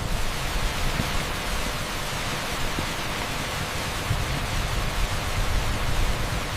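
Heavy rain pouring down on a street: a steady, even rush of noise.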